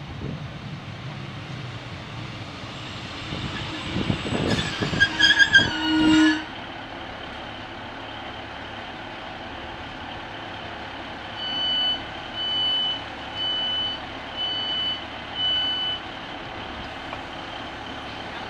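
Northern diesel multiple unit running into the platform and stopping, its brakes squealing in a falling whine about four to six seconds in, then idling. About twelve seconds in, the door alarm sounds five beeps as the doors are released and open.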